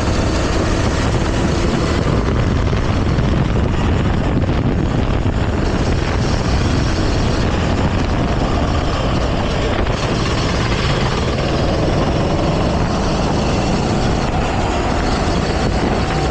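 Go-kart engine running out on track, its tone wavering up and down under a loud, steady rush of noise.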